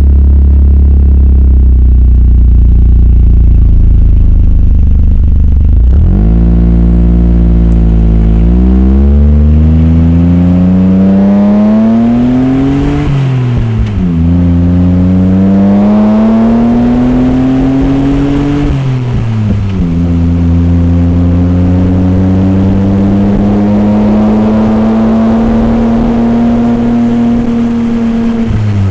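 Suzuki Jimny JA11's small turbocharged three-cylinder engine through an HKS Silent Hi-Power cat-back exhaust: it idles for about six seconds, then its pitch climbs in long pulls, dropping sharply twice as if shifting up, and settles into a steady, slowly rising note.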